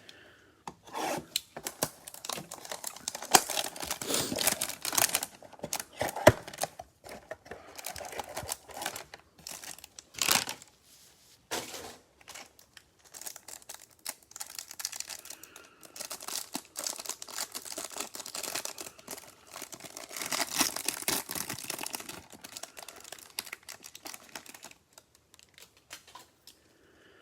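Plastic packaging being torn open and crinkled by hand, in irregular crackling spells with a sharp rip about ten seconds in.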